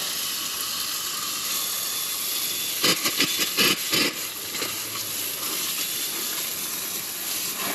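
Garden hose spraying water onto a hot AC compressor shell, a steady hiss as the water steams off the overheated compressor. A quick run of clicks and knocks comes about three seconds in.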